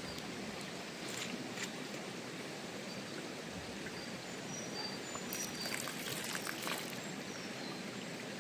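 Steady rush of flowing stream water, with a few scattered clicks and some short high chirps over it.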